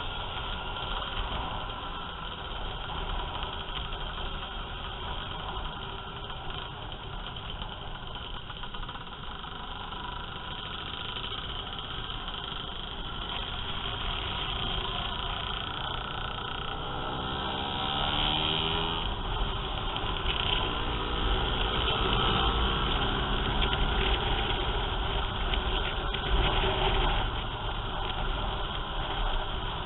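Motorcycle and scooter engines running in a group ride, heard from a helmet-mounted camera with a steady rush of wind and road noise. About seventeen seconds in, the engine note rises as the bikes speed up and the sound grows louder.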